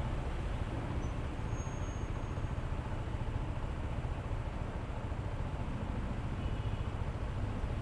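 Steady wind and road noise with the hum of a Honda ADV160 scooter's single-cylinder engine at riding speed.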